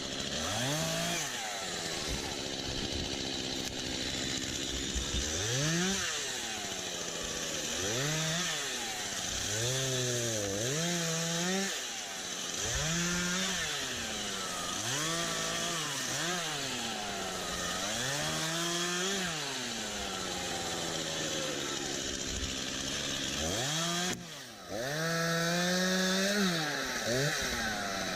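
Stihl MS251C two-stroke chainsaw revving up and falling back over and over, about every two seconds, with a brief drop in level near the end.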